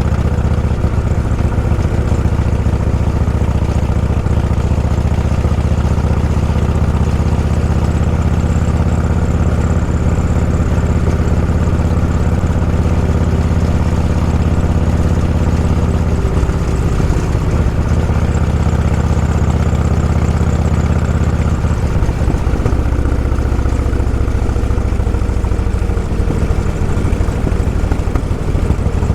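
Vehicle engine running steadily on the move, a deep low drone whose pitch shifts slightly about halfway through and again a little later.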